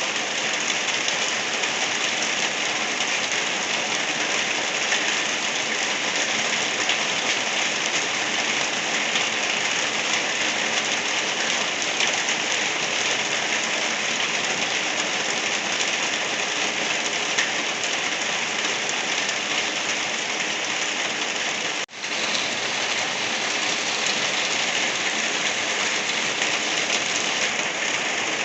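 Steady rain falling on a surface, an even hiss with a single momentary dip about three quarters of the way through.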